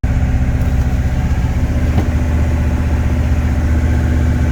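GM 6.2-litre diesel V8 of a 1985 GMC C30 pickup running steadily.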